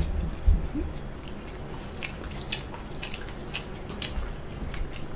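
Close-up chewing and mouth sounds of someone eating, with scattered light clicks and a low thump about half a second in.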